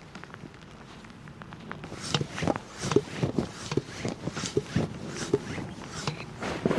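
A quiet start, then from about two seconds in an irregular run of short knocks and crunches, like someone moving about on foot or handling camp gear.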